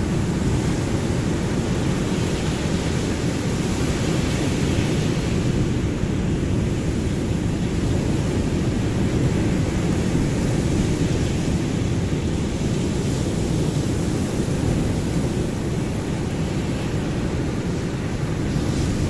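Ocean surf, a steady low rush of waves with no separate breakers standing out.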